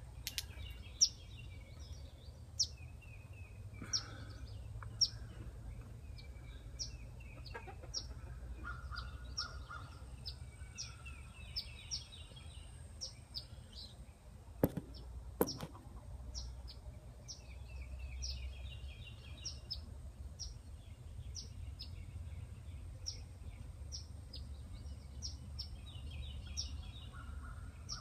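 Short, sharp bird chirps repeated about once or twice a second with some twittering, the parent songbird calling near its nest of fledglings. A few knocks of handling break in, the loudest about 15 seconds in.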